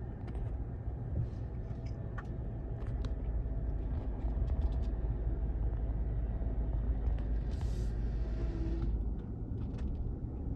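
A steady low mechanical rumble with a few faint clicks, and a short hiss about eight seconds in.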